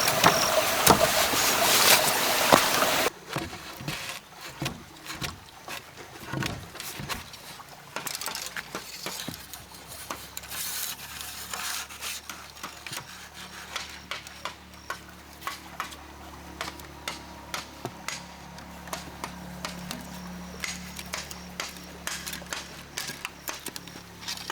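Running water that cuts off suddenly about three seconds in, followed by scattered light knocks and clicks.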